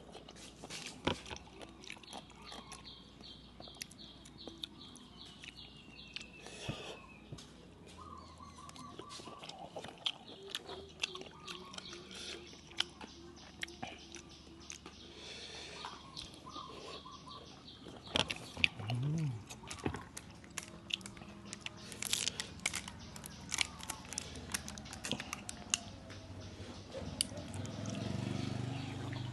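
A person chewing and biting with mouth sounds, eating a spicy Thai papaya salad with crunchy lotus shoots and seafood. There are frequent short, sharp crunches and clicks.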